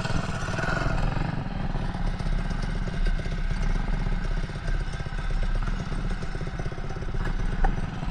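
Small single-cylinder Predator engine on a mini bike running steadily at low speed, a rapid even chugging without any big rev.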